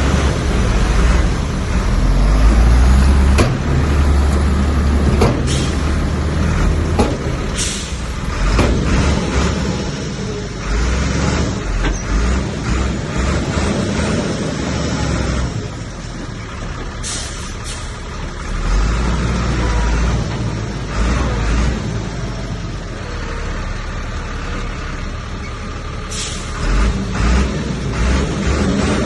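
Heavy diesel earthmoving machinery, a bulldozer, running under load with a deep rumble that rises and falls, broken by several brief sharp clanks or hisses.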